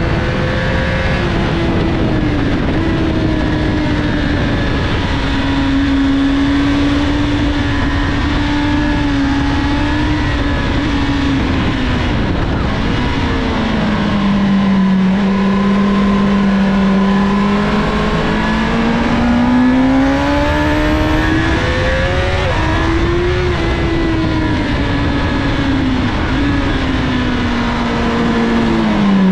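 2007 Honda CBR1000RR Fireblade's inline-four engine running hard on track, heard onboard over heavy wind rush. Its pitch falls about thirteen seconds in as the bike slows for a corner, climbs again, and drops back with throttle and downshifts near the end.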